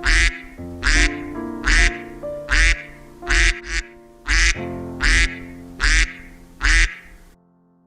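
Duck quacking about ten times at an even pace, over a light background tune; both stop about seven seconds in.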